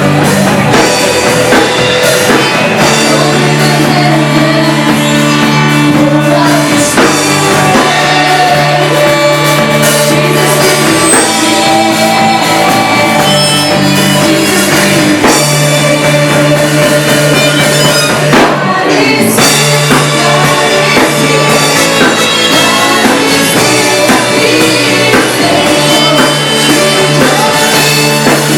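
Live band rehearsing a loud rock-style worship song: drum kit, guitars and sustained bass notes, with singing over them.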